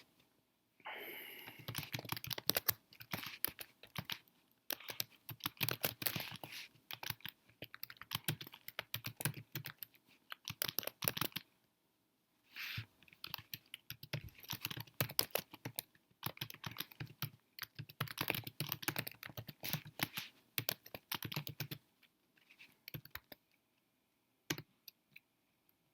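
Typing on a computer keyboard: quick runs of keystrokes, with short breaks about eleven seconds in and again about twenty-two seconds in.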